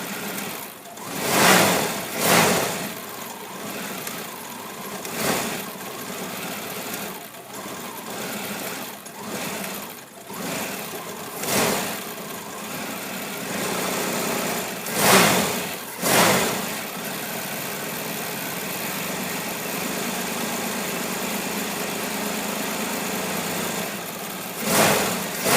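1990 Cadillac V8 running roughly just after a hard start, having sat unused for a while: an unsteady low idle broken by repeated surges in engine speed, steadier for several seconds before two more surges near the end.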